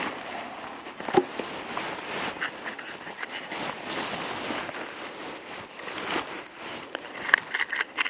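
Dry spruce twigs and split wood rustling and knocking as they are handled and laid for a fire, with one sharp knock about a second in and a quick run of snaps near the end.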